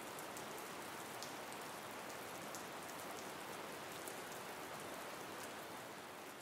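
Steady rain from a sound-effects recording: an even hiss with scattered sharp drop ticks.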